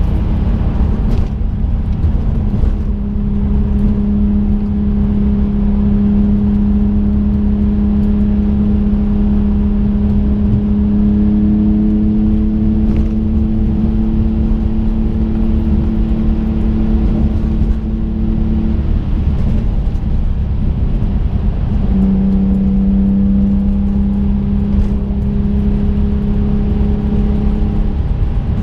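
Twin-turbo 2005 Infiniti G35 coupe's 3.5-litre V6 heard from inside the cabin while cruising: a steady engine drone over heavy road and tyre rumble. The engine note drops away about two-thirds of the way through and returns a few seconds later.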